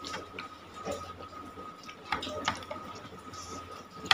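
Scattered light clicks and knocks of utensils against dishes while eating instant noodles, a sharper click near the end, over a faint steady high whine.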